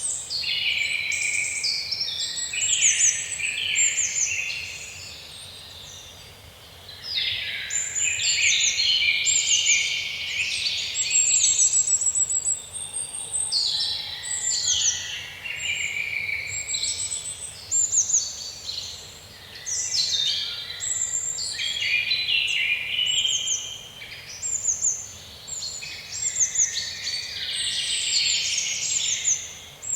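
A dawn-chorus-like mix of many songbirds singing and chirping at once, with rapid trills and high chirps overlapping, briefly thinning out about five seconds in, over a faint steady background hiss.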